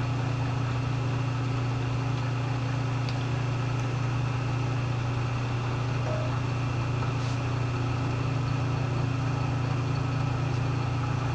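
Bridgeport milling machine's electric motor running steadily: a constant low hum with fainter steady tones above it.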